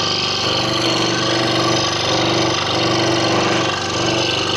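Scroll saw running steadily, its blade stroking rapidly up and down as it cuts through the wooden puzzle board.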